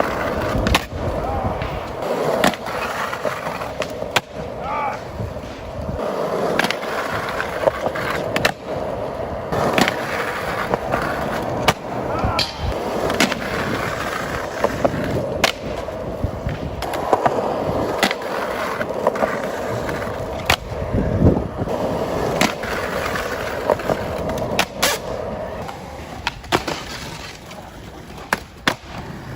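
Skateboard wheels rolling, with repeated sharp clacks of the board as tricks are popped and landed.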